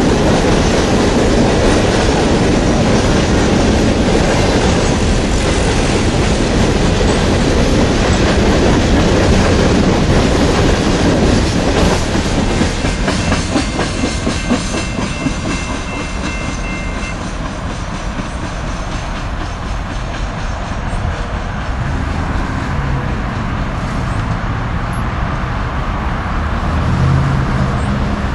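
Hopper cars of a long freight train rolling past, with steady wheel and rail noise and rhythmic clicking over the rail joints. It eases off a little after about twelve seconds. A faint thin wheel squeal runs for a few seconds around the middle.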